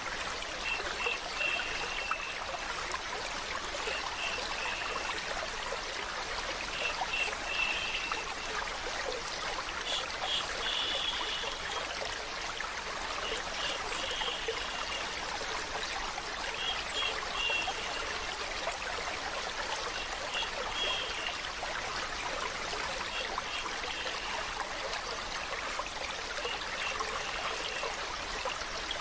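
Steady flowing, trickling water, like a small stream. Short high chirping notes come through every few seconds.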